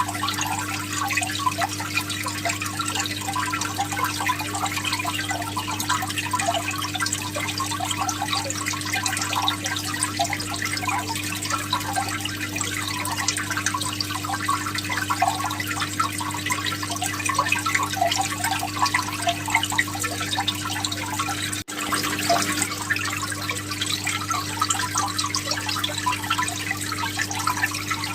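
Aquarium filter return splashing and trickling into the tank water, over a steady electric hum from the pump. The sound cuts out for a moment about three-quarters of the way through.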